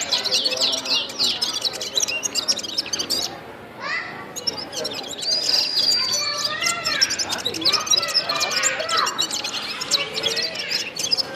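A songbird known in Pashto as the gulsar singing a fast, busy run of chirps, trills and sweeping notes, with a short pause about three seconds in and a long held whistle a little past the middle.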